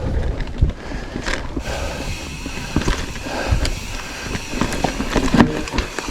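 Mountain bike rolling along a dirt forest trail: steady tyre rumble with frequent knocks and rattles from the bike as it rides over bumps.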